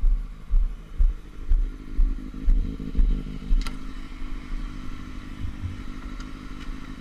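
Motorcycle engine idling steadily, with low thumps about twice a second through the first few seconds.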